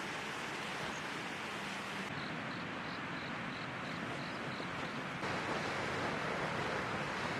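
Strong wind rushing steadily, an even hiss with no lulls. Through the middle a faint high chirp repeats about three times a second.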